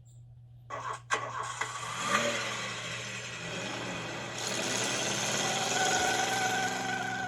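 Car engine starting: a few clicks about a second in, then the engine catches and revs, growing louder and steadier in the last few seconds.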